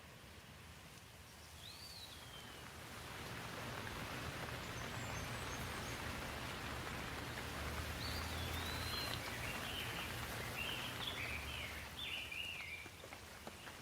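Steady rain falling, swelling heavier about three seconds in and easing off near the end. A bird gives a short call early on the rise, and a bird chirps several times toward the end.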